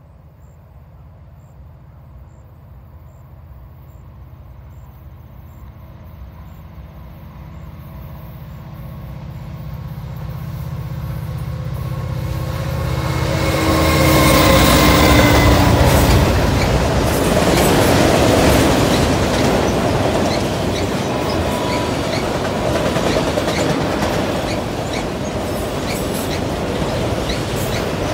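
Two CN diesel freight locomotives approach with their engines running, growing steadily louder until they pass about halfway through, their hum dropping slightly in pitch as they go by. They are followed by the steady rumble and clatter of loaded autorack cars rolling over the rails.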